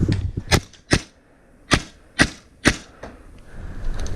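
Paintball marker shots: five sharp cracks at uneven intervals, two close together early and three more about half a second apart.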